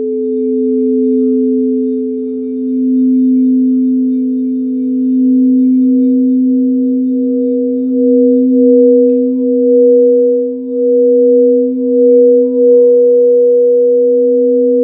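Singing bowls sounding in a sound meditation: two steady, sustained tones, a low one and a higher one. From about halfway through, the higher tone pulses and wavers in loudness.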